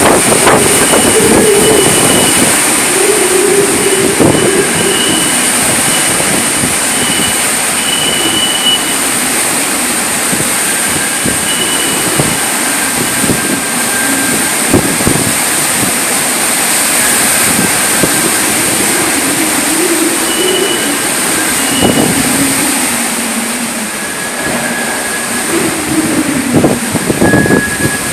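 Strong typhoon wind rushing and gusting in loud, surging swells, with faint thin whistling tones coming and going.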